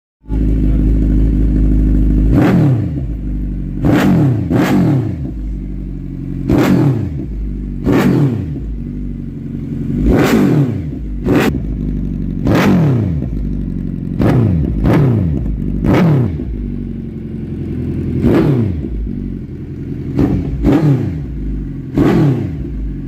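Suzuki Hayabusa's inline-four engine through an aftermarket SC Project-style racing exhaust: it idles, then is revved in about fifteen quick throttle blips, each one rising sharply and falling back to idle.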